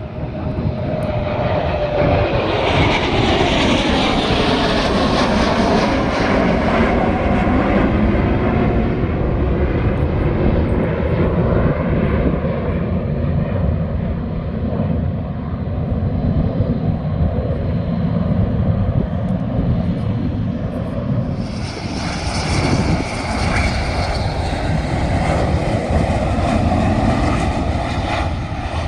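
Aircraft engines running loudly and continuously. A whine falls in pitch at the start, then the engine noise grows harsher and hissier twice: a few seconds in, and again for the last several seconds.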